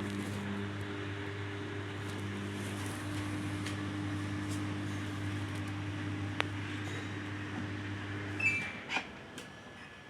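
A washing machine humming steadily. The hum cuts off about eight and a half seconds in, followed by a short electronic beep and a few clicks.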